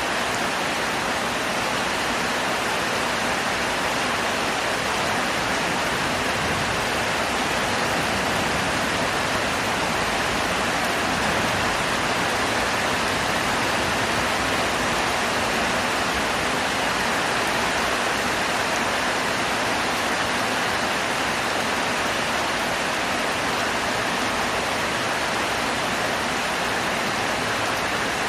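Heavy rain falling, a steady even downpour that holds constant throughout.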